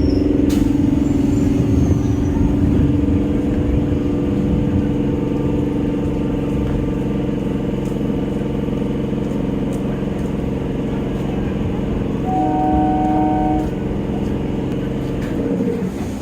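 Electric multiple unit local train running, a steady mechanical hum with several held tones over a low rumble. About twelve seconds in, a higher tone sounds briefly for just over a second.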